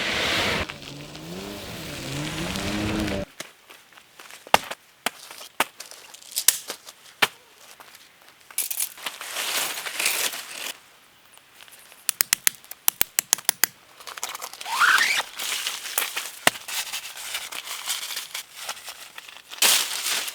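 Camping gear handled during a winter tent setup: crinkling and rustling of fabric or packaging broken by sharp clicks and knocks, with a quick run of rapid clicks midway and a short rising squeal a little later. A wavering low tone cuts off about three seconds in.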